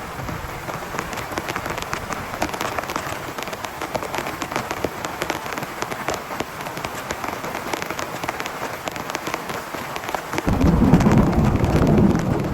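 Heavy rain hitting a tent in a dense patter of drops. Near the end a low rumble of thunder sets in suddenly and the sound grows louder.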